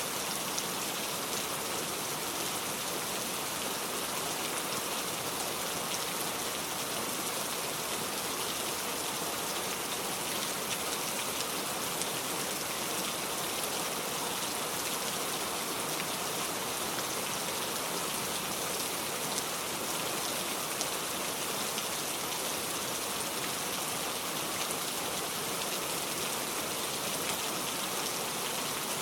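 Steady rain falling: an even hiss with scattered drops pattering.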